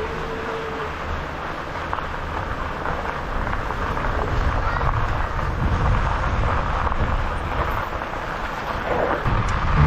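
Steady rushing noise of riding an e-bike along a gravel trail: wind on the microphone and tyres rolling, getting louder in the middle.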